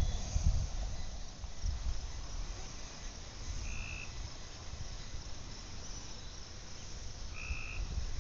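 Outdoor evening ambience: a short, high call repeats about every four seconds, over a low, gusty rumble of wind on the microphone.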